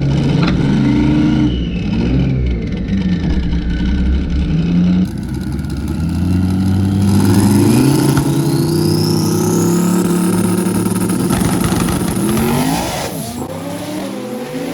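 Race cars, a twin-turbo Mustang and a DSM Eclipse, accelerating hard, their engines revving and climbing in pitch through gear changes. The sound changes abruptly about five seconds in and fades away near the end as the cars pull off.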